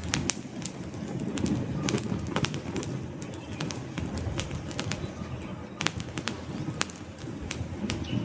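Wood fire crackling: sharp irregular pops and snaps from the burning logs, over a low steady rumble of the flames.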